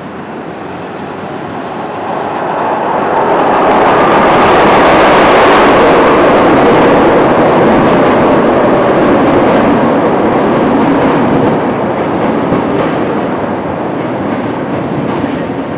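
CTA Brown Line 'L' train pulling into an elevated station. The rumble of the cars on the rails builds over the first few seconds and is loudest as the front cars pass. It then eases steadily as the train slows to a stop along the platform.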